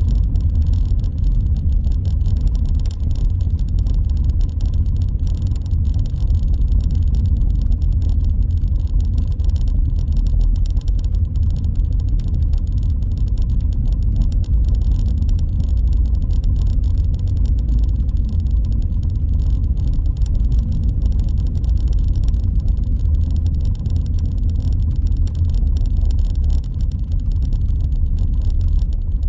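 A car driving steadily, with a continuous low rumble of engine and tyre noise.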